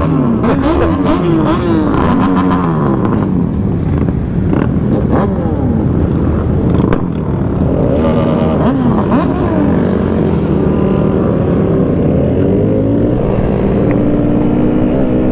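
Motorcycle engines revving up and easing off again and again as the bikes shift and ride in a group, with several engines rising and falling at once. The engine note holds steadier near the end.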